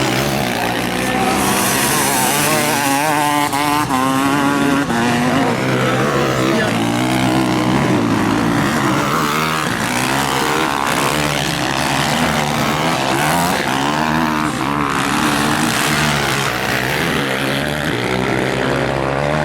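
Several motocross bikes racing on a dirt track, their engines revving up and down with overlapping, changing pitches as they pass.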